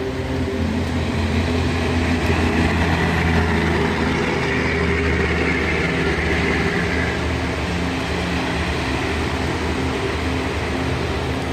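Storm rain making a steady dense hiss, with a continuous low mechanical hum running underneath. The rain swells a little in the middle before easing back.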